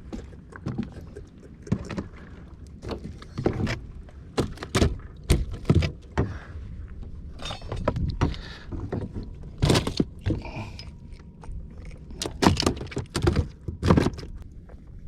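Irregular knocks, thuds and rattles of fishing gear being handled in a small boat, with more than a dozen sharp strikes, the loudest between about 12 and 14 seconds in.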